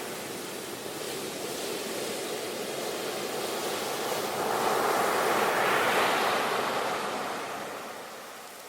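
Ocean waves breaking and washing up the shore: a steady surf hiss that swells about halfway through and then recedes near the end.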